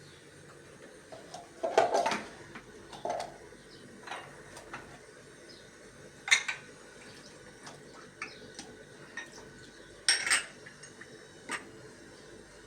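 Dishes and metal utensils clattering in separate sharp clinks and knocks as they are handled, with a cluster about two seconds in and strong single clinks about six and ten seconds in.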